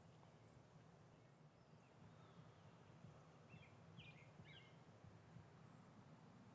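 Near silence: faint outdoor ambience with a few brief, faint bird chirps about three and a half to four and a half seconds in.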